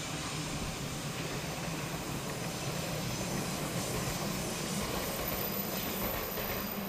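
Echigo Tokimeki Railway 413/455-series electric multiple unit running along the track out of the switchback siding onto the main line, a steady running noise of wheels and motors at an even level.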